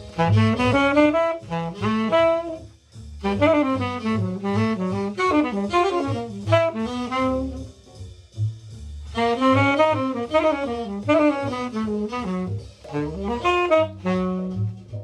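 Tenor saxophone playing a fast bebop solo, with quick ornamented lines and enclosures, over bass accompaniment. The lines pause briefly about three seconds in and again around eight seconds in.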